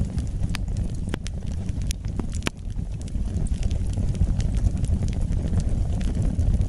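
Wood fire burning in a fireplace: a steady low rumble of flames with irregular sharp crackles and pops, more of them in the first half.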